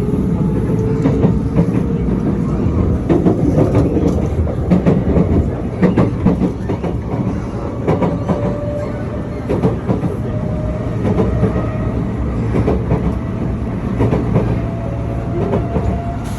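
Electric train running on rails: a steady low rumble with wheels clicking over the rail joints, and a thin motor whine that slowly rises in pitch.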